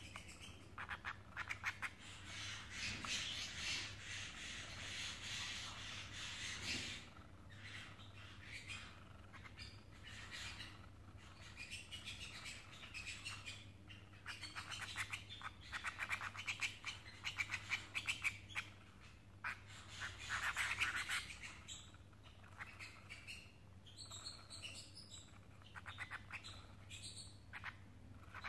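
Canaries chirping and squawking in long runs of quick, trilling chatter, loudest early on and again around two-thirds of the way through.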